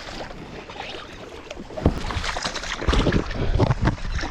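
Hooked carp thrashing and splashing in shallow floodwater, quieter at first, then a burst of heavy, irregular splashes starting about two seconds in.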